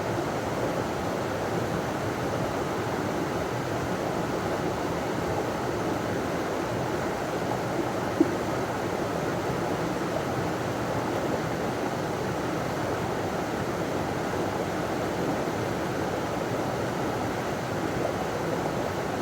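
River water pouring over a small waterfall: a steady, even rushing. One brief louder blip about eight seconds in.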